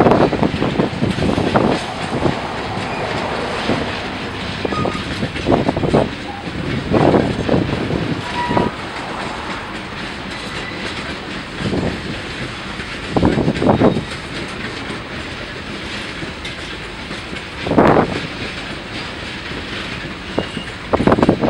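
Freight train cars rolling along the rails, their wheels clanking loudly over rail joints at uneven intervals over a steady rumble.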